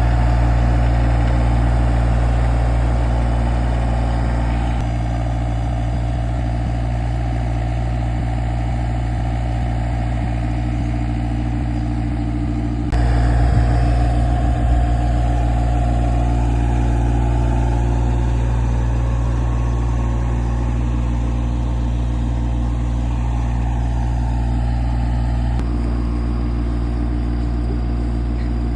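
Farm tractor engine running steadily while it moves a large hay bale on a bale spear. The sound changes abruptly about halfway through.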